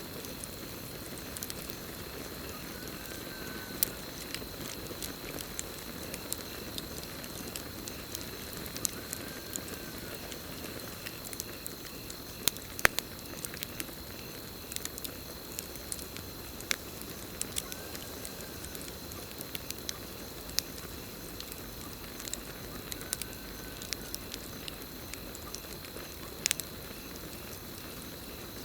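Campfire wood burning with a steady low crackle and frequent sharp irregular pops. A continuous high cricket trill runs behind it, and a faint short call comes back about every five to six seconds.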